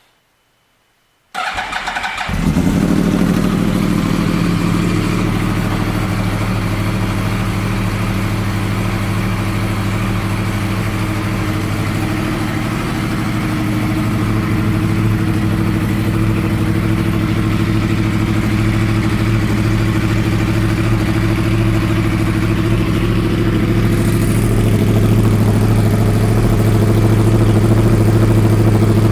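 2009 Yamaha YZF-R1's crossplane inline-four engine being started: a short burst of starter cranking about a second in, then it catches and runs at a steady idle through its Yoshimura twin-pipe exhaust, a little louder near the end.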